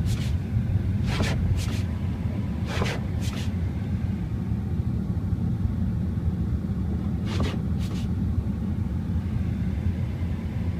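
Car running on the road with a steady low rumble. Short, sharp noises come in pairs, about half a second apart, four times.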